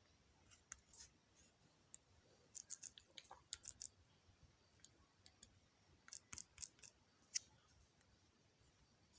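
Faint, sharp clicking taps in quick clusters, like fingers tapping a phone's touchscreen.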